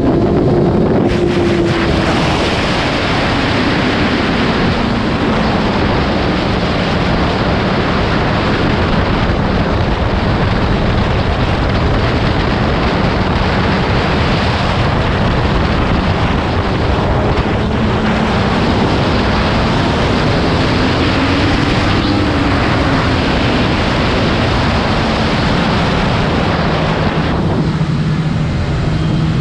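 Motorcycle engine running at speed under loud wind rush on the microphone, its pitch slowly rising and falling. The wind noise drops away near the end as the engine note steadies.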